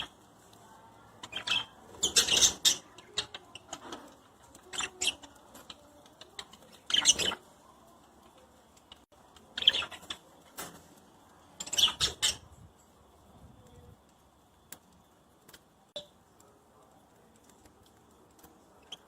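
Budgerigars chirping in short bursts every couple of seconds. In the last few seconds the calls thin out to a few faint ticks.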